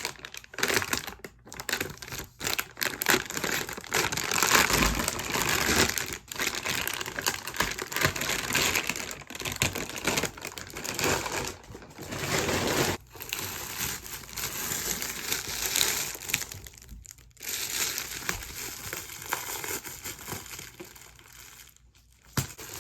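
Plastic packaging crinkling and rustling on and off as a vacuum-sealed beanbag chair is unwrapped and pulled out of it.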